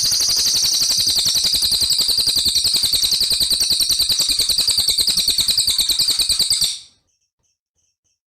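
A songbird's fast rattling trill of high notes, many per second, held without a break, used as a masteran training song; it stops abruptly about seven seconds in.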